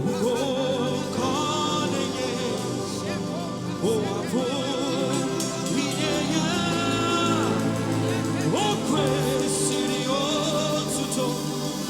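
Live gospel music: a singer's voice carried over sustained keyboard or band chords, with other voices joining in.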